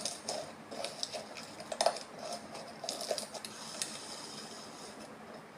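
Slime being squeezed and poked, making irregular clicks and crackles, the sharpest about two seconds in, thinning out near the end.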